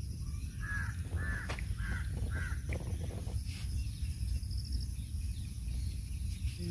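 A bird calling four times in quick succession, short calls about half a second apart, over a steady low rumble.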